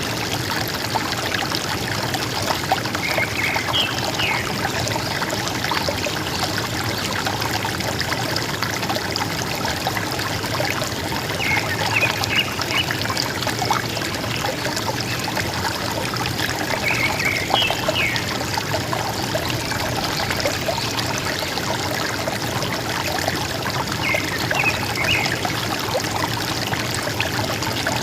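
River water flowing and gurgling steadily. A bird calls over it four times, each a short burst of a few quick high notes, about every six or seven seconds.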